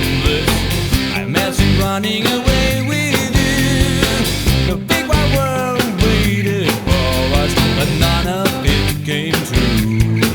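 Pop-rock band playing an instrumental passage without vocals: drums, bass and guitars.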